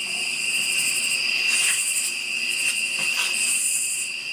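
Night insects, crickets and similar, trilling in a steady high chorus, with higher buzzing swelling twice.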